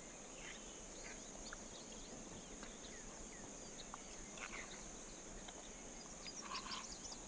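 Crickets chirring in a steady high-pitched drone, with a few faint short chirps and small clicks over it.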